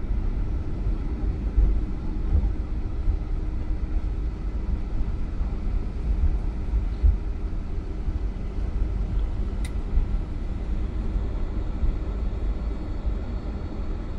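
Airliner cabin noise on the ground just after landing: a steady low rumble with a few brief bumps and a single sharp click about ten seconds in.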